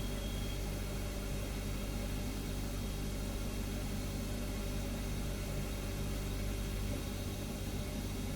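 Refrigerator humming steadily: a low hum under an even hiss, with a faint high whine that stops about half a second in.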